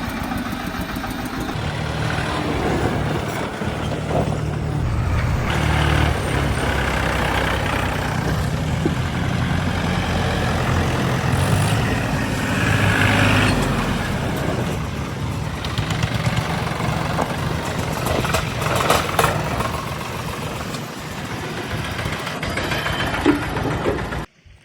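Diesel tractor engine running steadily, its low drone shifting in pitch and level, then cutting off suddenly near the end.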